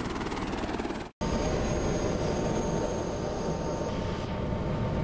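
Helicopter running: a steady, dense rotor and engine noise with a fast, even beat. It breaks off for an instant about a second in, then carries on with a steady whine over it.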